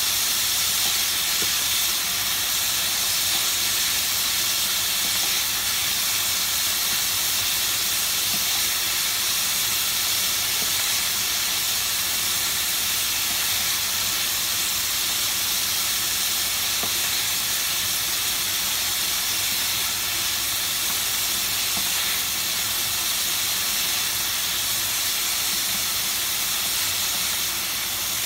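Diced chicken cubes frying in oil in a pan, a steady sizzling hiss.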